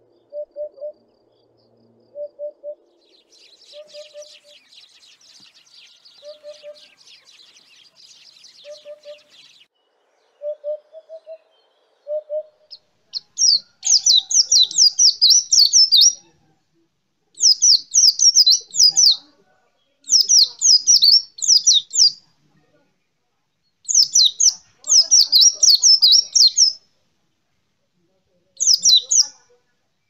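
African hoopoe calling: soft, low hoots, mostly in pairs, repeated every couple of seconds, with a faint high buzz behind them for a few seconds. About 13 seconds in, an African yellow white-eye takes over, singing loud, rapid, high twittering phrases of two to three seconds with short pauses between.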